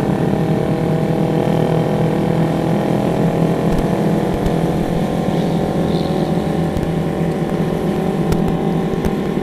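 Motorcycle engine running steadily while riding, its pitch easing down slightly, with road and wind noise.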